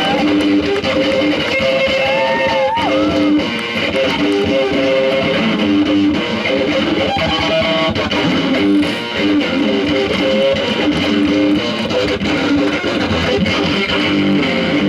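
Instrumental break of a live rock song: strummed electric guitar with bass, loud and steady, with a few sliding notes about two seconds in.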